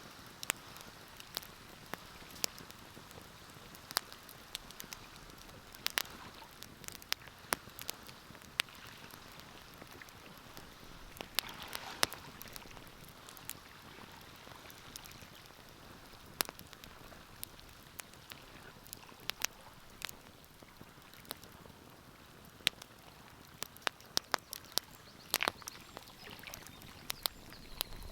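Wood fire burning in a fireplace, crackling: irregular sharp pops and snaps over a soft, steady hiss, coming faster in a cluster near the end.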